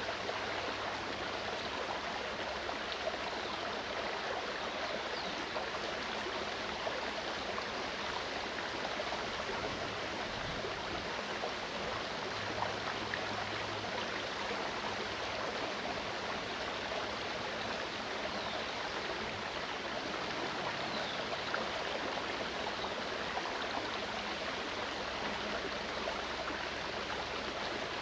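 Mountain stream running steadily over rocks, a constant rushing and babbling of water.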